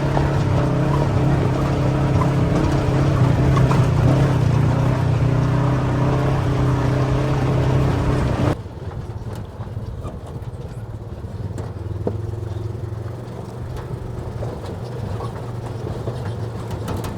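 A vehicle engine running steadily while driving. About halfway through it cuts abruptly to a quieter, lower engine note.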